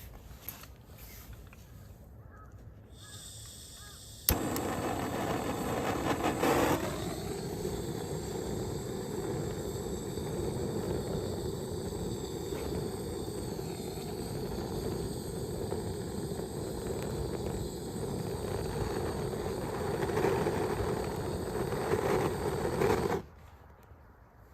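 A gas torch lit with a sharp click about four seconds in, its flame roaring steadily for about nineteen seconds, then shut off suddenly near the end.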